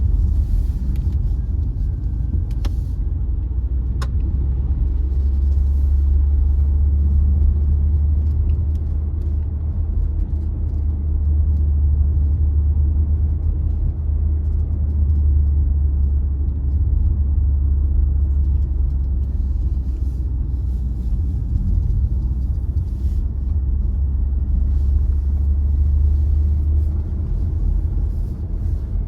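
Car driving at a steady pace: an even, deep rumble of road and engine noise, with two faint clicks about three and four seconds in.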